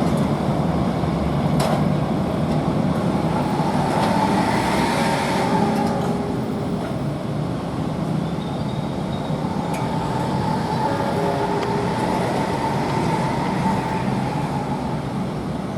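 Train running past on the rails: a steady, loud rumble with a faint high squeal held for a few seconds at a time.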